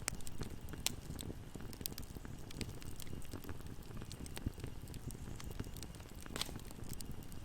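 Wood fire burning in a fireplace: a steady low rumble of flames with scattered sharp crackles and pops, a louder pop about six seconds in.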